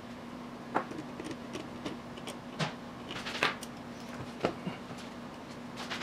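Scattered light metallic clicks and knocks of hand tools and engine parts being handled, about eight in all, the loudest about 1 s, 2.5 s, 3.5 s and 4.5 s in, over a faint steady hum.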